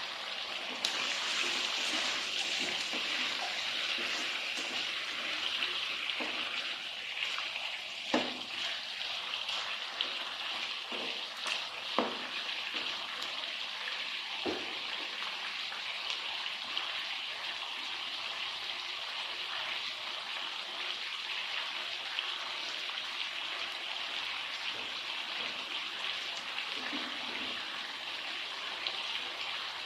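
Food sizzling steadily in a frying pan, with a few sharp knocks about a third of the way in.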